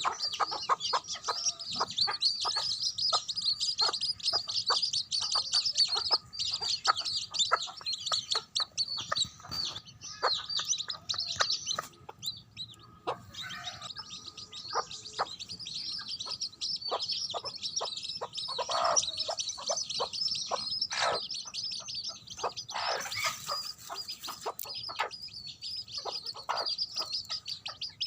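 A brood of baby chicks peeping nonstop in high-pitched chirps, with a mother hen clucking among them.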